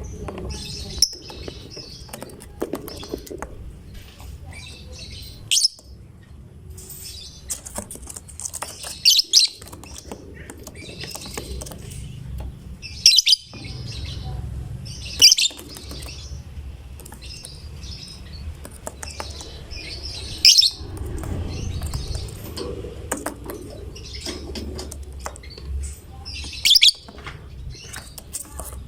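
Lovebird in full song: continuous high chattering and twittering, broken by about six loud, shrill calls a few seconds apart.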